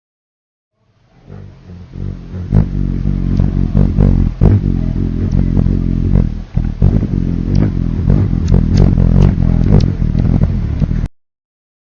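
Hummingbird wings humming in a loud, motor-like buzz, broken by sharp chips and clicks. It starts about a second in and cuts off suddenly near the end.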